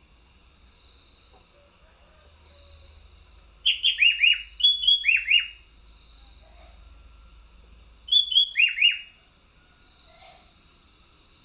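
Sooty-headed bulbul (kutilang) singing in two bursts of quick notes, each falling in pitch: one about four seconds in and a shorter one about eight seconds in.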